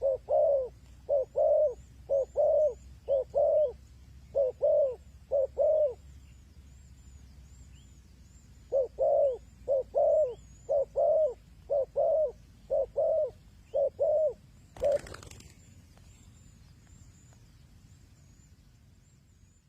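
Spotted dove cooing: two runs of repeated low coo phrases with a pause between them, the typical call used as a lure in dove trapping. About fifteen seconds in there is a brief rustling burst, then only faint background, with thin high chirps of small birds behind the coos.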